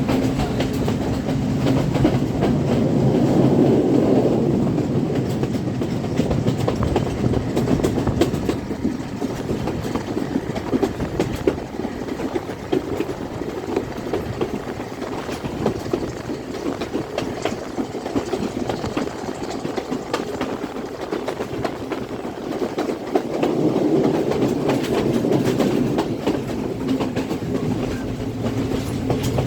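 Colombo–Badulla express train running on the line, its wheels clattering over the rail joints in a steady clickety-clack over a rumble. It grows louder a few seconds in and again near the end.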